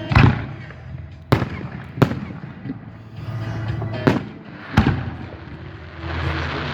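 Fireworks exploding: about five loud separate bangs spread across a few seconds, followed by a denser spell of noise near the end.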